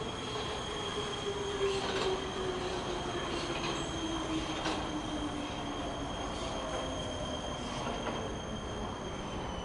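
Subway train slowing to a stop: a steady high-pitched wheel squeal over a lower tone that falls in pitch as the train slows, with occasional clacks over the rail joints.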